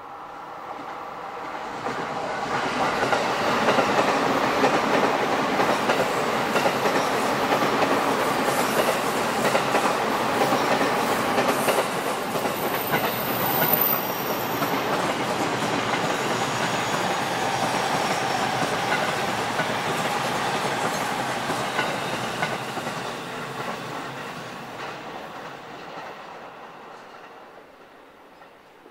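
A Sobu Line train passing through a curve, its wheels running on the rails. The sound builds over a few seconds, holds for about twenty seconds, then fades away, with a brief high squeal about halfway through.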